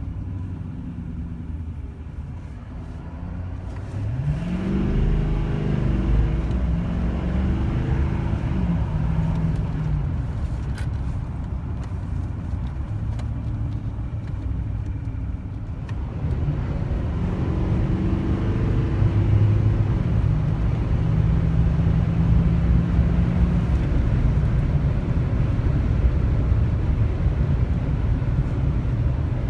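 L5P Duramax 6.6-litre V8 turbodiesel in a GMC Sierra HD pickup pulling hard on the highway. The engine note rises in pitch several times, over steady road rumble that gets louder about four seconds in.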